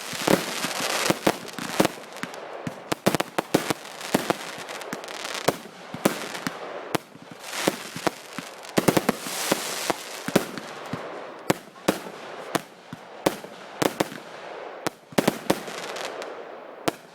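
Fireworks going off: a dense, irregular run of sharp cracks and pops over a continuous crackling hiss, thinning out near the end.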